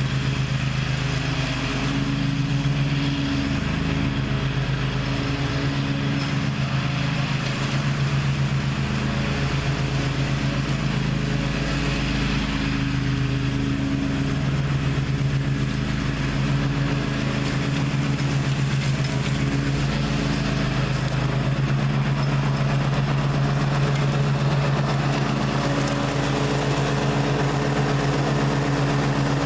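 Gravely ZTx 42 zero-turn mower's engine running steadily, its pitch holding nearly constant.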